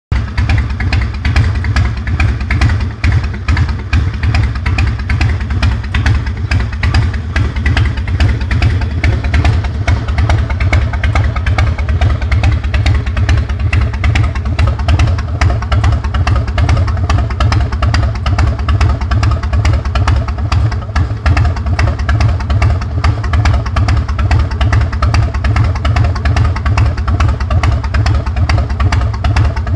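2003 Harley-Davidson Heritage Softail's air-cooled Twin Cam 88B V-twin running steadily at a constant speed, loud and even, with no revving.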